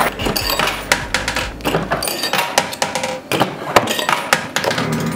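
Quarters spilling off a coin pusher's shelf and clattering down into the payout tray: a run of irregular metallic clinks and knocks, some ringing briefly.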